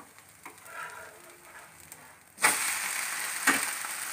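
An egg dosa is flipped onto a hot oiled nonstick tawa: after a quiet start, a sudden loud sizzle breaks out about two-thirds of the way in as the egg-and-vegetable topped side meets the pan, and it keeps frying steadily. A sharp knock of the spatula on the pan comes about a second later.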